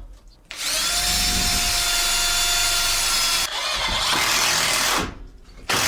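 Electric drill running and boring into wood: the motor spins up, drills steadily for about four seconds, then stops, followed by a short second burst near the end.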